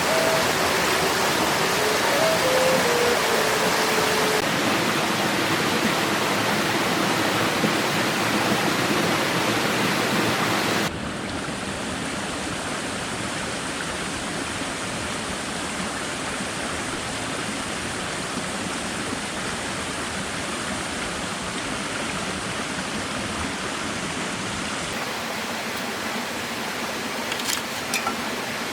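Steady rushing hiss of water, the heavy rain or running water of a forest camp, changing abruptly twice and becoming quieter and duller about eleven seconds in. A few faint pitched notes sound in the first few seconds, and a few sharp clicks come near the end.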